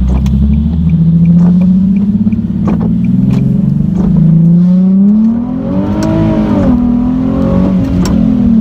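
Car engine running through a muffler-deleted exhaust, a loud drone whose pitch rises to a peak about six seconds in and then falls back as the engine speed changes.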